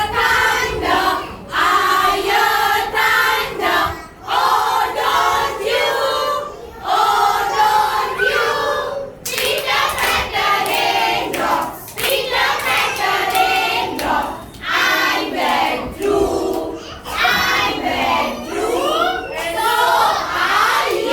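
A group of young children singing and chanting together in short, loud phrases with brief pauses between them.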